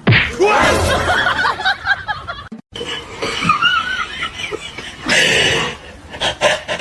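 People laughing and snickering, loud and in bouts, with a brief break about two and a half seconds in.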